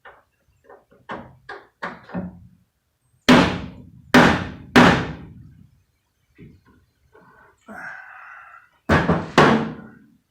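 Metal hammer taps on an old rusty screw in a steel truck door, done to jar the rusted screw loose: light knocks at first, then three loud sharp strikes, a brief scraping rattle, and two more loud strikes near the end.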